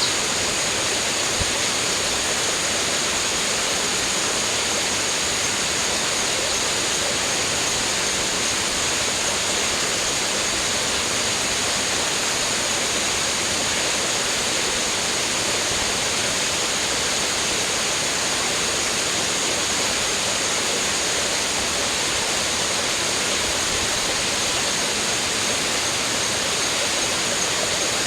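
Steady rushing of running water, even and unbroken, with a thin steady high-pitched tone sitting above it.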